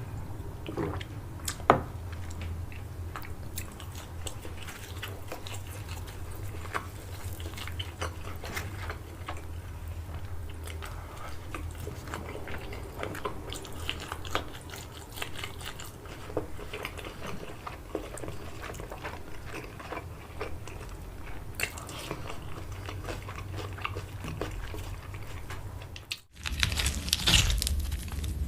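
Close-up chewing and biting of crunchy food, a steady run of small crunches. Near the end, after a brief break, a louder crinkling of packaging.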